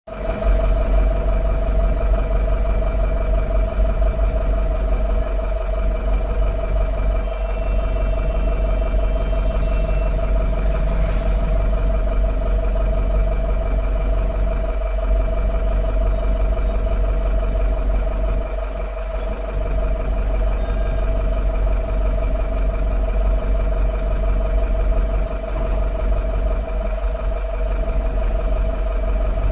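Truck engine running steadily: a constant low rumble with a steady mid-pitched whine over it.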